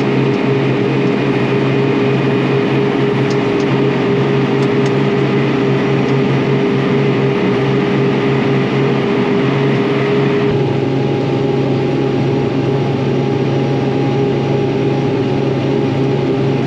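Farm crop sprayer running steadily in the field, a loud even engine and machine drone; about ten seconds in its tone shifts, the hiss thinning and a higher steady hum coming in.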